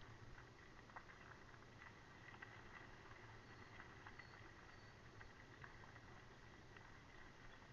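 Near silence: faint scattered ticks and clicks over a low, steady background hum.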